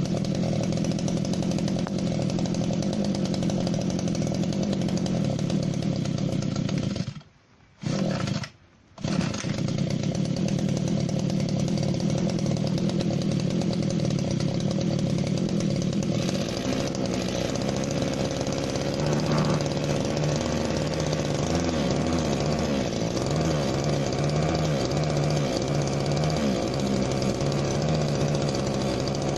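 Spear & Jackson SPJHT26 hedge trimmer's small two-stroke petrol engine running, fitted with a new carburettor. The sound breaks off twice for under a second early on, and about halfway through its note drops to a lower, unsteady pitch that wavers.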